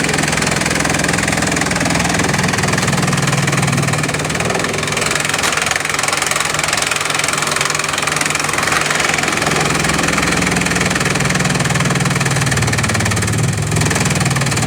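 Bamboo-crushing machine running continuously: a loud, steady machine drone with a dense noise over it.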